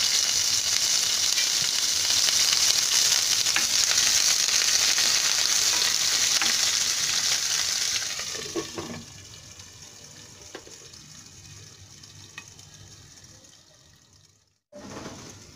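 Chopped onion, green chillies and curry leaves sizzling loudly in hot coconut oil in a kadai. About eight seconds in, a glass lid goes on and the sizzle drops to a muffled, much quieter hiss with a few faint pops.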